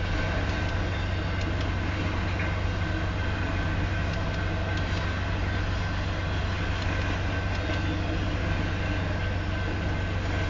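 Union Pacific double-stack freight cars rolling past at about 25 mph: a steady rumble of wheels on rail with no change through the stretch.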